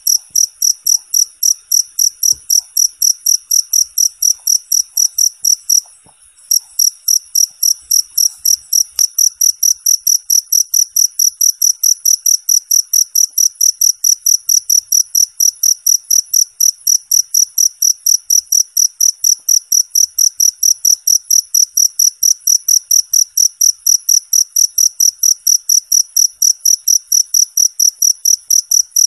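Cricket chirping in a steady run of rapid, evenly spaced, high-pitched chirps, about three a second, with a short break about six seconds in.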